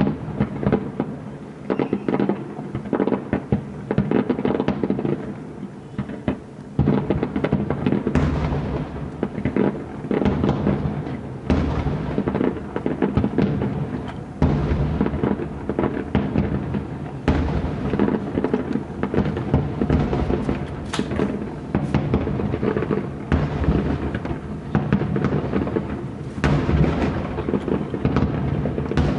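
Aerial fireworks display: shells bursting one after another in dense, continuous barrages with crackle, growing heavier about eight seconds in. Music plays underneath.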